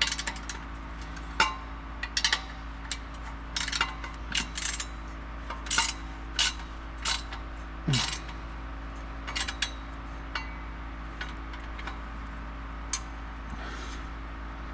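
Ratchet wrench clicking in short runs with pauses between them, tightening the bolts of an exhaust section. A steady low hum runs underneath.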